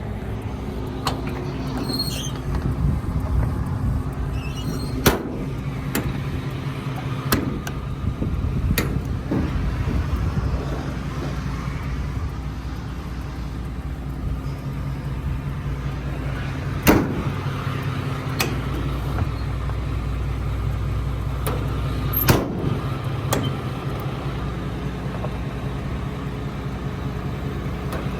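The truck's 7.8-litre Isuzu diesel idling steadily, with a few sharp clicks and knocks at scattered moments.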